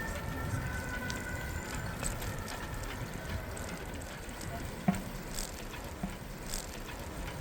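City street ambience heard from a moving bicycle: a steady rumble of traffic and tyres, with a single sharp click about five seconds in.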